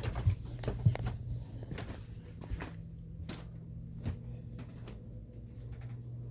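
Tempstar central air-conditioning system running with a steady low hum that resonates through the house; a second, slightly higher hum joins about two seconds in. Scattered knocks and rustles from handling and movement sound over it, most in the first couple of seconds.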